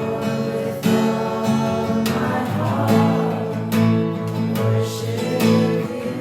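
Acoustic guitar strumming chords in a steady rhythm, as worship music.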